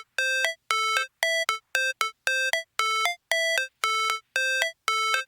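Electronic music intro: a bare synthesizer riff of short, clean, ringtone-like notes, about two a second with gaps between them, and no beat or bass.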